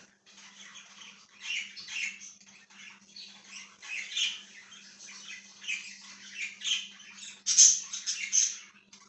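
Budgerigars chirping and chattering in a quick, busy stream of short calls, loudest near the end.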